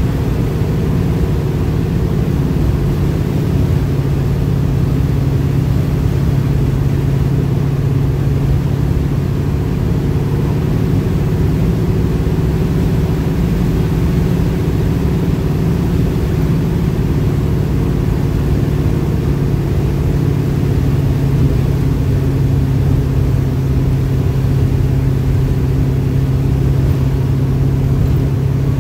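1969 Pontiac Firebird's engine running steadily while cruising at an even speed, heard from inside the cabin with road and wind noise.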